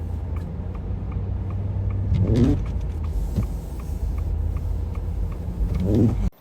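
Steady low rumble of a vehicle engine, with a faint regular ticking a couple of times a second and two brief louder swells. It cuts off abruptly near the end.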